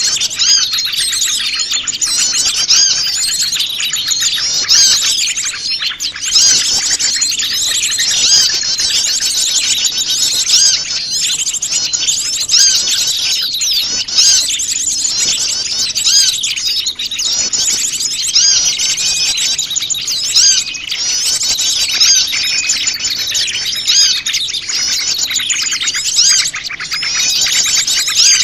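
Busy chorus of many small wild birds chirping and twittering at once, quick overlapping calls with no let-up. It is a lure recording (suara pikat) for drawing small wild birds in close.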